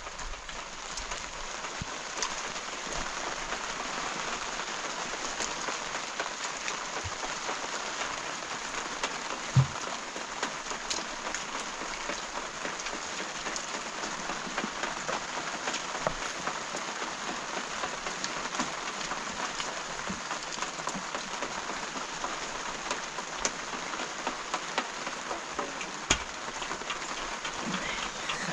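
Steady rain falling, an even hiss with many small drop ticks; a sharper knock comes about ten seconds in and another near the end.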